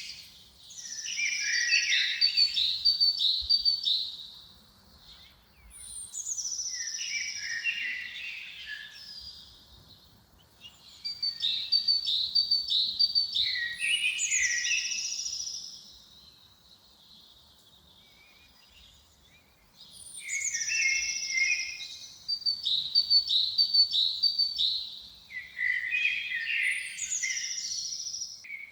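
A songbird singing: repeated phrases a few seconds long, each made of quick high notes and trills, separated by short pauses, with a longer pause about two-thirds of the way through.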